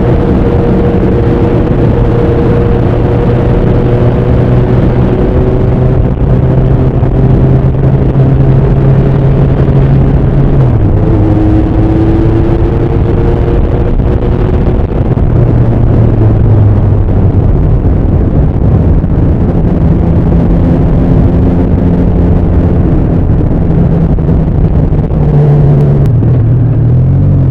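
Bimota SB3's Suzuki GS1000 air-cooled inline-four engine and exhaust running under way, a steady note that drops in pitch about ten seconds in and climbs again near the end.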